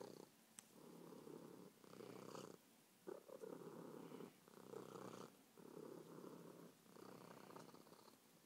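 Kitten purring in a run of about six pulses, each under a second long with short breaks between them.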